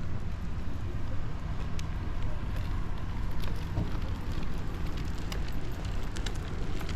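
Harbor ambience: a steady low rumble with scattered light clicks and ticks.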